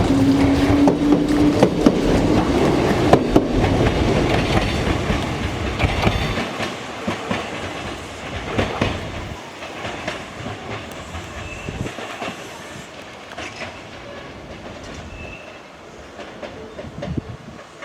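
Kintetsu Minami-Osaka Line electric train running through the station, its motor tone rising slightly in pitch near the start over a heavy rumble. The rumble drops away about six seconds in, leaving wheels clicking over rail joints that fade as the train moves off.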